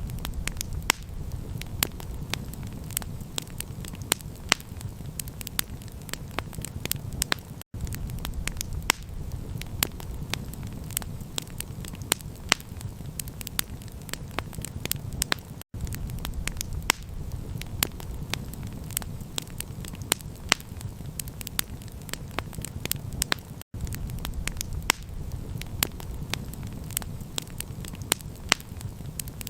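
Campfire crackling: frequent sharp pops and snaps over a steady low rumble, cutting out for an instant about every eight seconds.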